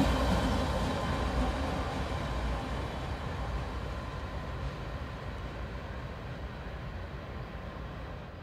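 CSX train's rumble on the rails, fading steadily as the rear end of the train moves away.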